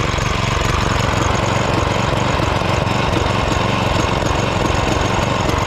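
Small petrol engine of a ride-on lawnmower running steadily.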